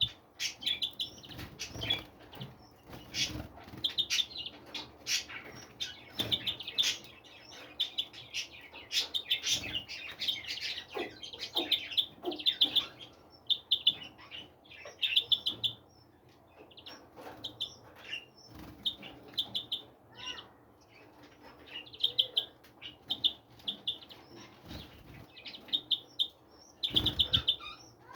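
Small songbirds chirping, with many short, rapid trills repeated throughout and scattered wing flutters.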